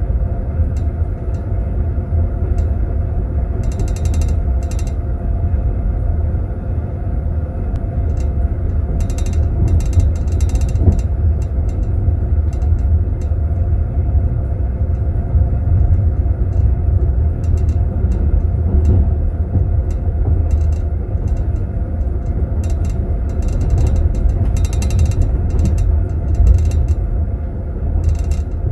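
Passenger train heard from inside a compartment: the steady low rumble of the running carriage, with teaspoons in tea glasses in metal holders rattling and clinking in short bursts a few times.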